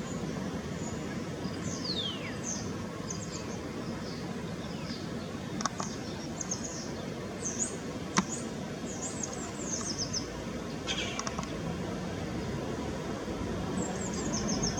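Wild garden birds chirping and calling in short high notes, with one long falling whistle about two seconds in. A steady low background rumble sits underneath, and there is a sharp click about eight seconds in.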